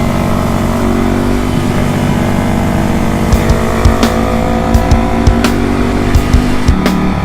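Yamaha R3's parallel-twin engine running steadily through an Akrapovic exhaust. A run of sharp cracks starts about three seconds in.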